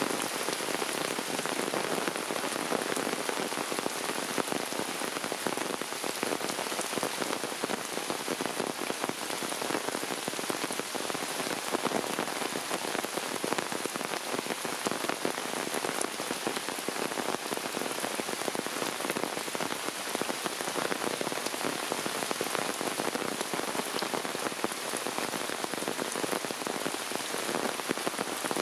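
Heavy downpour of rain splashing onto a wet path and into puddles: a steady, dense hiss of drops that keeps on without let-up.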